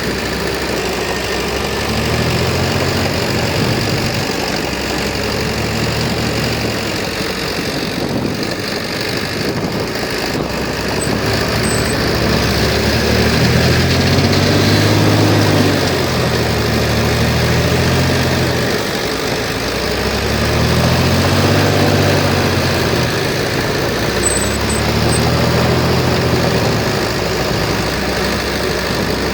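Heavy construction machine's diesel engine running, its pitch rising and falling back several times in slow swells every few seconds.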